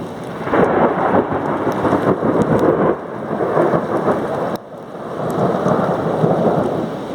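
Thunder rolling and rumbling through steady rain during a severe thunderstorm. It swells about half a second in, drops away briefly a little past the middle, then builds again.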